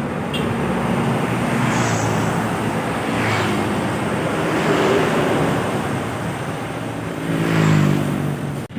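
Road traffic of large diesel trucks and buses passing one after another, with engine drone and tyre noise swelling and fading. The loudest pass comes near the end, and the sound cuts off abruptly just before the end.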